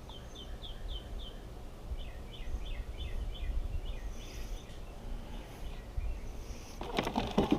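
A small bird chirping: a run of quick, high, falling chirps, then a faster run of paired chirps, over a steady low rumble. Clicks and rustling near the end.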